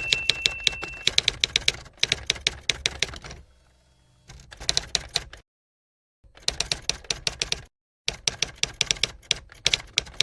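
Typewriter sound effect: fast runs of keystroke clicks with a bell ding fading out at the start, broken by two brief silences.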